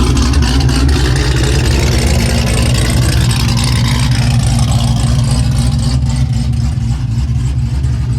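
A car engine running steadily with a deep, low exhaust note, getting slightly quieter over the stretch.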